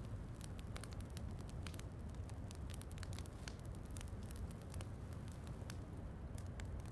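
Wood fire in a fireplace crackling: a dense, irregular run of small sharp pops and snaps over a steady low rumble.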